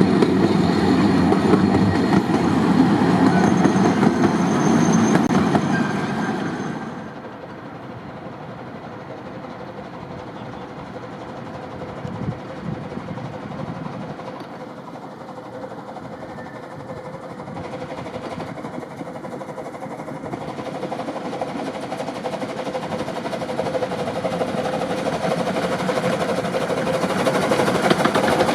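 Miniature park railway train running on the rails, with loud wheel rumble and brief high wheel squeals. The rumble drops off sharply about seven seconds in, then slowly swells again toward the end.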